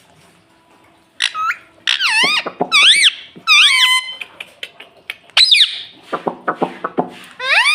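Pet rose-ringed (ringneck) parakeet giving a series of short, shrill squeaky calls that swoop up and down in pitch, in bunches starting about a second in, with a short break in the middle and a quick run of calls near the end.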